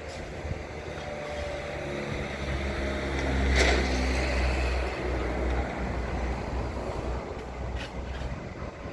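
Drill rig truck's engine running and picking up revs under load, with a short sharp burst about three and a half seconds in, then easing back near the end.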